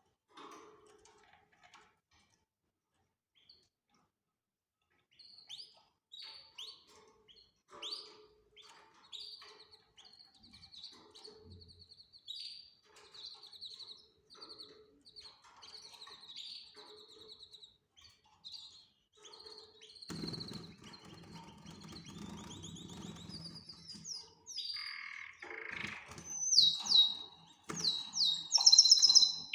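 Canaries chirping, then singing in rapid trills of repeated notes that grow louder, with loud swooping song phrases near the end. A low rustling joins in during the second half.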